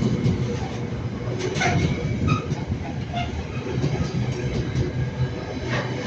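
Freight train hauled by Class 66 diesel locomotive 66558 passing close by: a steady low rumble, with the wheels clicking over rail joints now and then.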